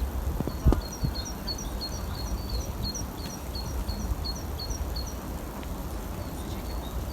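A small songbird singing a high two-note phrase, repeated quickly about three times a second for several seconds, then stopping. A steady low outdoor rumble runs underneath, with a couple of soft thumps near the start.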